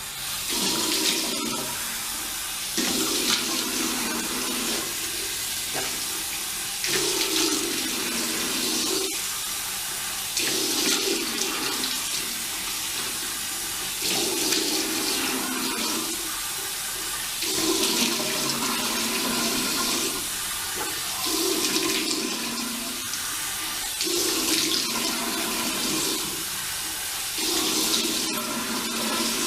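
Tap water running into a sink while the face is rinsed by hand. The water splashes more loudly about every two to three seconds, around ten times in all.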